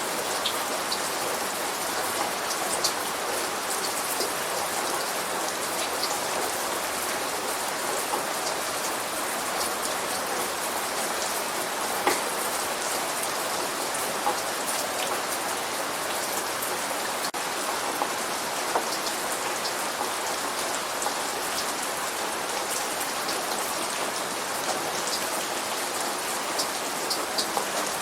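Steady light rain falling, with individual drops ticking sharply on a surface now and then.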